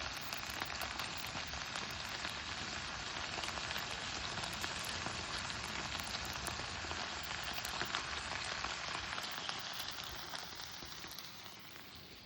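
Food frying over a campfire: a dense, crackling sizzle that fades away over the last two seconds or so.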